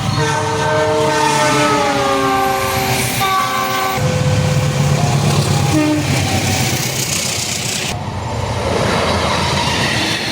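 Diesel locomotives passing: a multi-tone horn sounds with its pitch sliding down, over the low running of the engine. Then comes more engine sound and the clatter of wheels over rail joints, in short clips that change abruptly.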